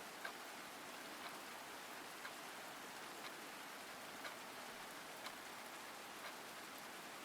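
Steady rain sound effect, an even hiss of rainfall, with a faint sharp tick repeating about once a second.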